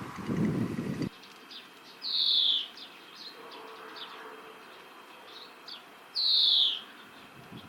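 European greenfinch singing: two drawn-out, buzzy wheezes that slide downward, about four seconds apart, with short chirps in between.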